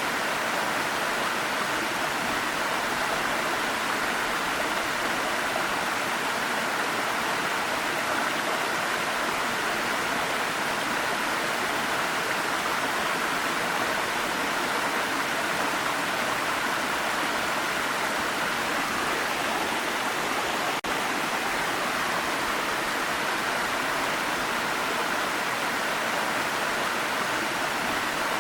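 Waterfall: a steady, even rush of falling water, with a momentary dip about 21 seconds in.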